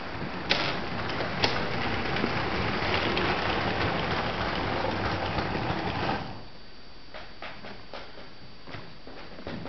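LEGO train running on plastic track: a steady whirr of its small electric motor and gearing, with a couple of sharp clicks early on. The whirr cuts off suddenly about six seconds in, leaving a quiet background with scattered faint clicks.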